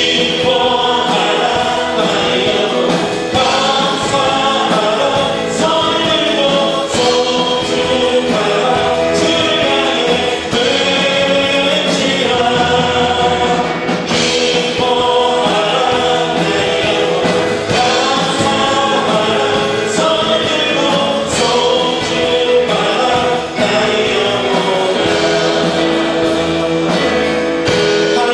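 A church congregation singing a praise song in Korean with instrumental accompaniment, steady and loud throughout.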